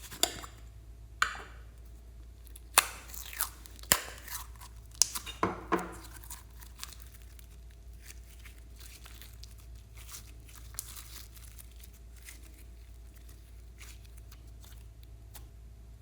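Slime being handled: a run of sharp, sticky tearing and crackling sounds over the first few seconds, then only faint scattered small clicks and pops.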